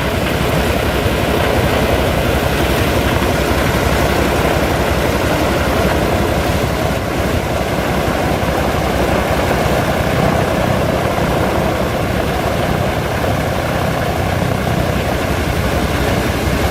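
Antonov An-2's nine-cylinder radial aero engine running steadily, with its propeller turning.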